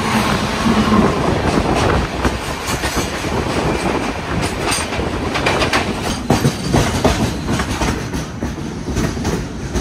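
Passenger train running, heard at an open coach door: a steady rush of wheel and track noise with rapid, irregular clacking as the wheels cross rail joints and points, close beside a line of freight wagons on the next track.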